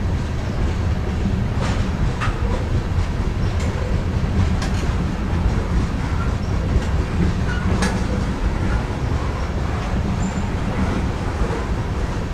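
Loaded grain covered hopper cars of a freight train rolling past: a steady low rumble of steel wheels on rail, with a handful of sharp metallic clicks and brief squeaks.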